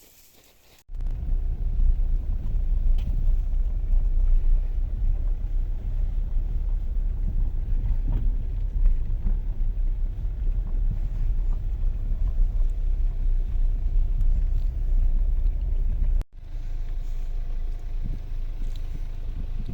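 Low, steady rumble of a vehicle driving, starting abruptly about a second in and cutting out briefly near the end.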